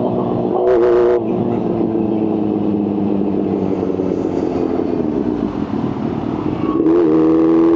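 Kawasaki H2's supercharged inline-four engine held at high revs, with a short burst of noise about a second in. It then runs lower and rougher for several seconds before climbing back to a steady high rev near the end.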